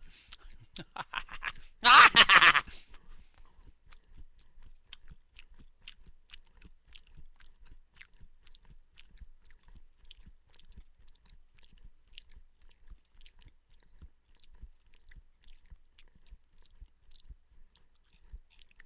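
Close-miked chewing of crunchy food. There is a loud crunching burst about two seconds in, then faint, irregular crunching clicks.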